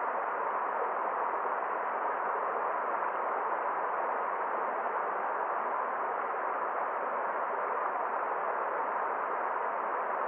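Forest stream water running steadily, an even rushing with no breaks or changes.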